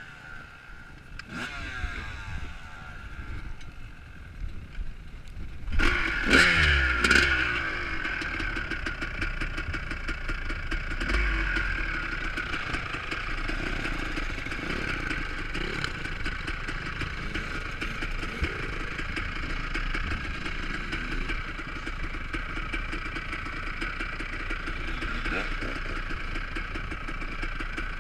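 Motocross motorcycles racing. About six seconds in, bikes rev hard and sweep past close with falling pitch, then a steady mixed drone of many bike engines carries on.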